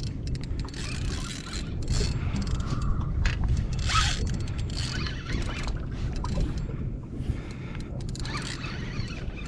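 Fishing reel being wound in, giving irregular bursts of whirring and clicking, over a steady low rumble on the boat.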